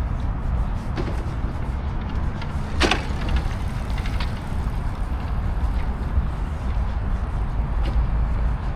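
Outdoor city ambience: a steady low rumble with a sharp knock about three seconds in and a few faint clicks.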